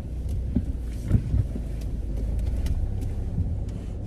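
A car's engine idling, heard inside the cabin as a steady low rumble, with a few light knocks and clicks about a second in.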